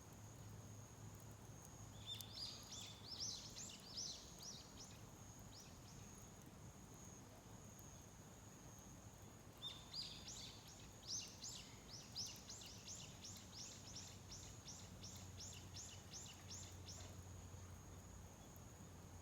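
Faint songbird song: two runs of quick, repeated high chirping notes, the second longer and faster, about a second and a half apart in its notes' spacing, over a steady faint high-pitched tone and a low hum.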